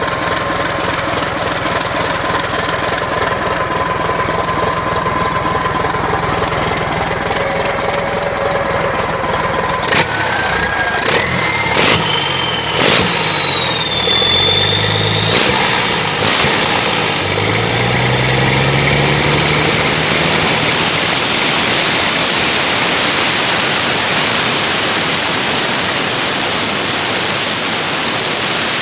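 Caterpillar 3406C inline-six turbo diesel from a D8R dozer running on a test, steady at first. About ten seconds in, the speed is raised in a few steps with some clicks, and a high whine then climbs steadily in pitch to near the end as the engine speeds up.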